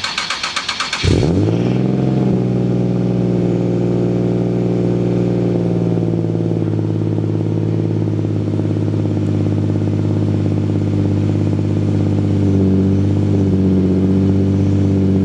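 Car engine cranking with a rapid clicking for about a second, catching with a quick rise in revs, then settling into a steady idle.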